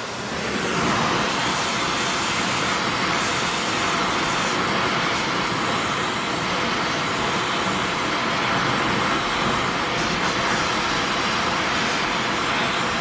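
A power tool working the steel of a replacement snowblower skid, running with a steady, even noise that starts just after a sharp knock.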